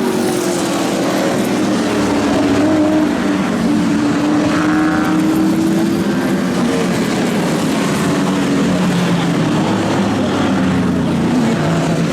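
Several Group NC race car engines running in the pits, their pitch slowly rising and falling as they idle and blip.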